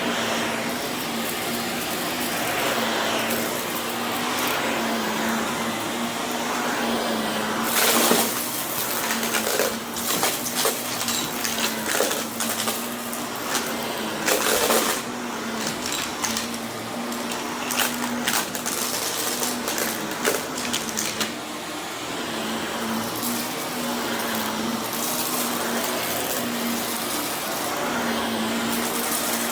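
Vacuum cleaner running steadily with a constant motor hum, crunching and clicking as it sucks up grit and debris, with sharp rattles about 8 and 14 seconds in.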